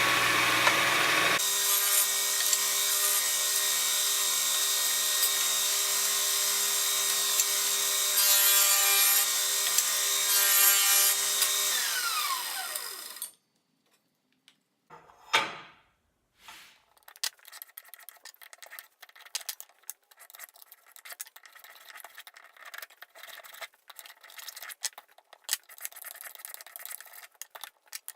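An electric power tool runs steadily, then is switched off and winds down about 13 seconds in. After a pause comes faint, irregular scratching and rubbing.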